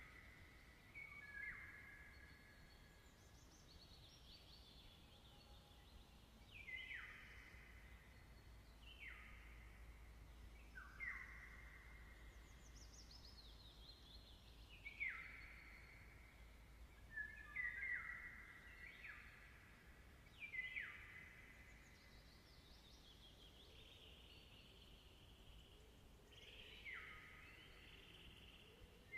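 Birds singing in short phrases, about ten of them a few seconds apart, each dropping in pitch and then holding briefly, over a faint low rumble.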